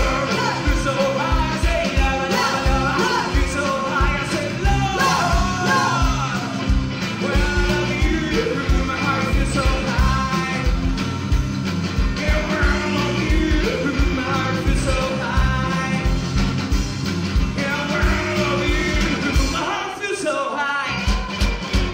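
Live rock band playing, with a voice singing or shouting over a driving drum beat. The bottom end thins out briefly near the end.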